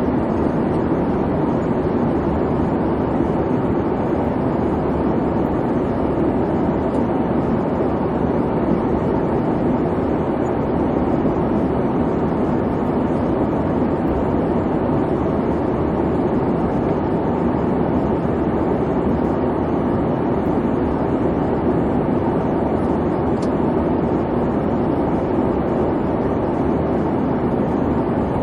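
Steady airplane cabin noise: an even rumble and hiss of jet engines and airflow, with a faint steady tone above it.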